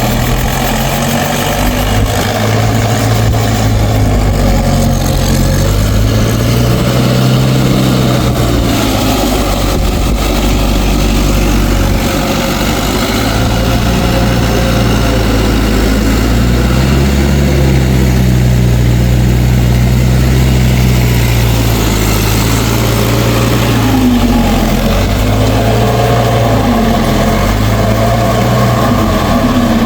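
Mahindra tractor's diesel engine running loudly and continuously, its pitch sagging and rising every few seconds as the engine speed changes.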